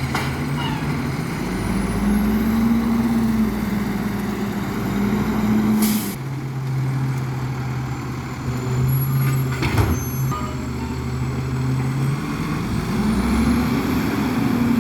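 Garbage truck engine running, its pitch rising and holding for a few seconds twice as the hydraulics work the bin. A short hiss comes about six seconds in, and a sharp knock about ten seconds in.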